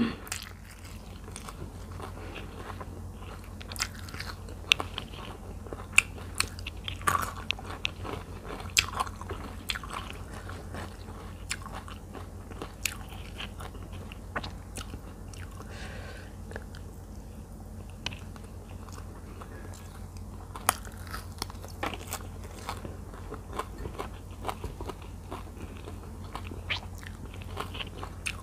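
Close-miked chewing and crunching of fresh herbs and vegetables eaten with spicy minced tilapia larb, with many short sharp crunches and mouth clicks scattered through. A steady low hum lies underneath.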